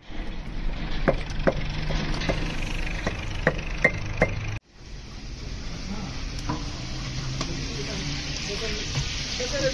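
Food sizzling as it fries in a large cooking pot. In the first half it is stirred, with about seven sharp knocks over a low steady hum. After an abrupt cut about halfway through, a steady high sizzle fades back in.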